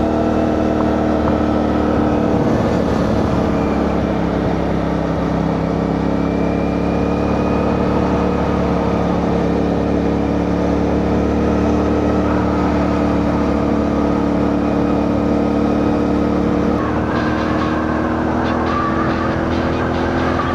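CFMoto 450NK's parallel-twin engine running at a steady cruise, with wind rush over the rider's microphone. About seventeen seconds in, the engine note shifts slightly higher.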